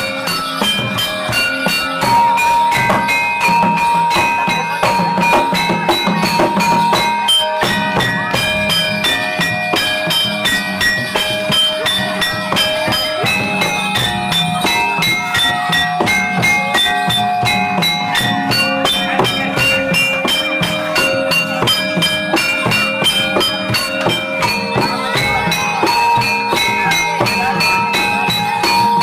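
Jathilan dance accompaniment music: drums and struck metal percussion playing a fast, steady rhythm, with bell-like jingling and long held melody notes over it.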